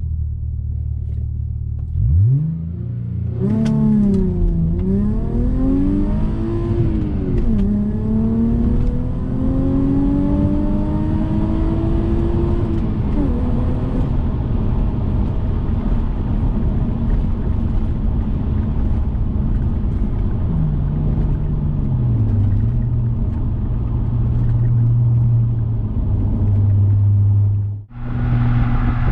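2003 Audi A4's 3.0 L V6 running through a custom exhaust under driving. The revs climb sharply a couple of seconds in and swing up and down, then pull in a long steady rise that drops off suddenly at an upshift. After that it settles into steady, lower cruising with a brief dip in pitch later on.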